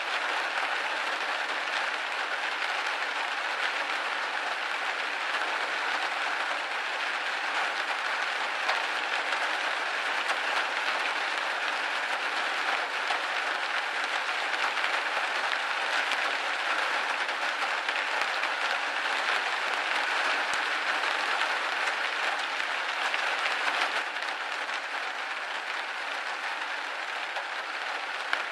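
Rain falling on a window pane: a dense, steady hiss of many drops striking the glass, easing slightly about three-quarters of the way through.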